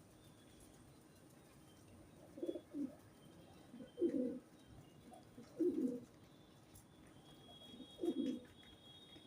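A pigeon cooing: four low coos, the first about two seconds in and the rest every couple of seconds.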